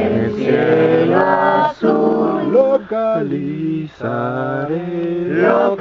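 A slow Spanish campfire closing song being sung, with long held notes; the word "azul" comes about two seconds in.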